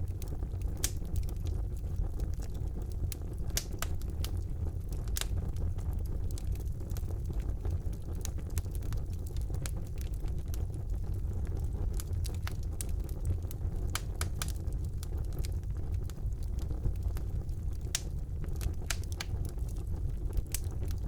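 Fire burning in a fireplace: a steady low rumble of the flames with frequent irregular sharp crackles and pops.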